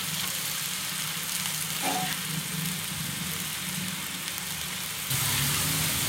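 Mutton liver pieces and spices sizzling on a hot iron tawa while a slotted metal spatula stirs them: a steady hiss over a low hum, with a brief clink about two seconds in. The sizzle grows louder about five seconds in.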